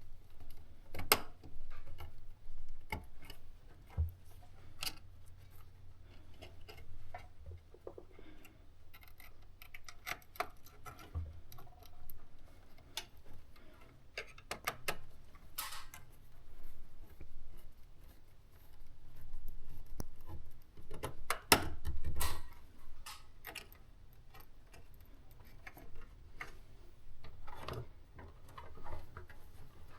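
Irregular clicks, taps and small knocks of hands working with tools and small parts, with no steady rhythm and a few louder clusters.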